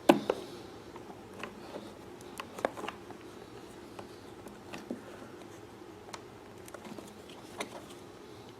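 Light, irregular clicks and rubbing of hands fitting a rubber pulse (breather) hose onto a port of a generator's pulse-type fuel pump, with a few sharper taps of small parts.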